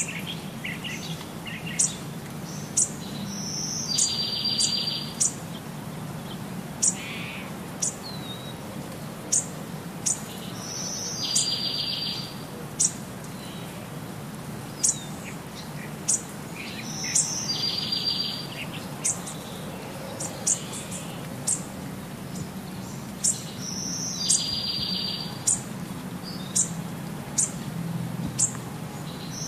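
Birds chirping: many short, sharp, high chips, with a longer buzzy trill about every six or seven seconds, over a faint low steady hum.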